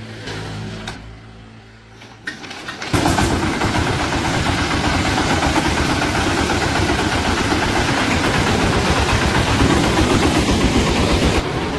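An engine is cranked and catches about three seconds in, then runs loud and steady with a rapid pulsing exhaust note.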